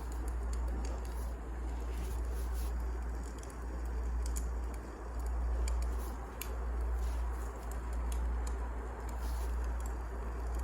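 Wood fire burning in a fireplace, with scattered crackles and pops over a steady low rumble.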